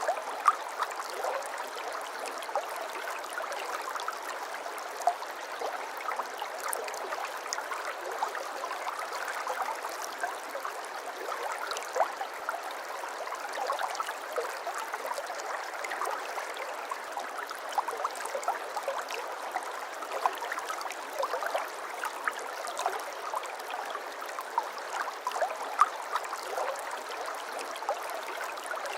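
Shallow water flowing and trickling steadily, with many small splashes and bubbling gurgles.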